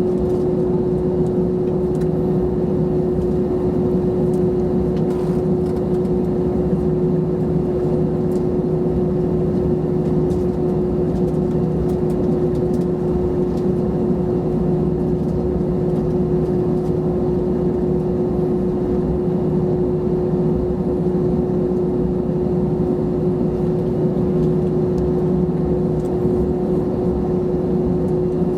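Inside the cabin of an Airbus A321-211, its CFM56 turbofan engines running with a steady hum. A single steady tone rides over the rumble, with no rise or fall in level.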